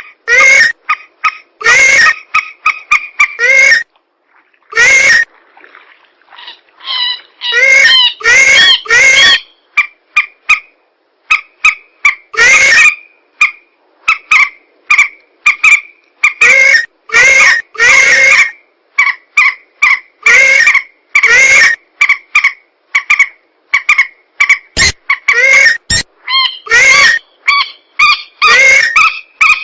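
Bird-luring recording of swamp-bird calls for mandar and pelan: loud, harsh calls repeated in quick series with short gaps.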